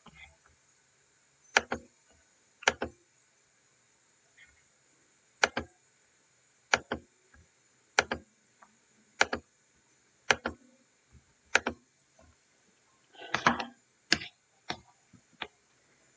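A series of sharp, separate clicks, about one every second or so, with a short rattling clatter about thirteen seconds in.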